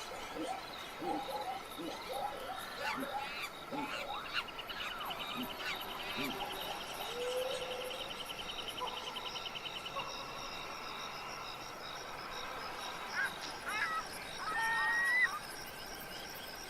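Wild animal chorus: insects droning steadily under many short chirping calls, a rapid trill lasting several seconds in the middle, and loud whistled bird calls near the end.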